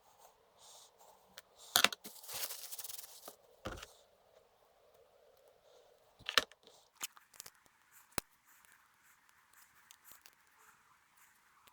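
Hand work on small transmission parts: sharp clicks and a knock of parts and tools being handled, with a rasping noise lasting just over a second, about two seconds in, then scattered light ticks.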